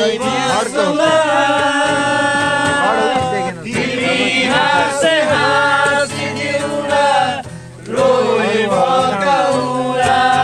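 Several voices singing a song together, with long held notes.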